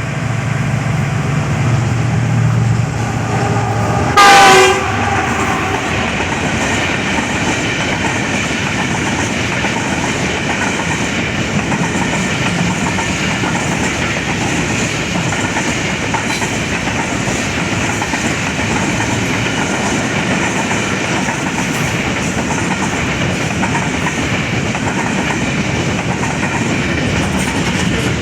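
Container freight train passing, its wagons rolling steadily over the rails with clickety-clack. About four seconds in, a single short, loud horn blast.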